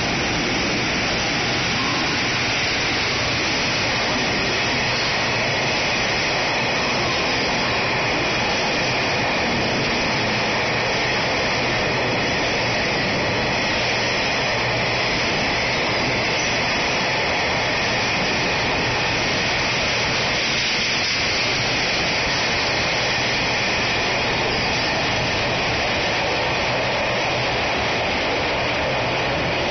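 A JR Freight EF210 electric locomotive and a long string of gasoline tank cars running close past the platform, making a loud, steady, even rumble of wheels on rail throughout.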